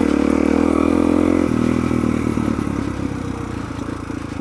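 Suzuki DR-Z400's single-cylinder four-stroke engine running under a rider, its note changing about a second and a half in, then easing off and getting quieter toward the end.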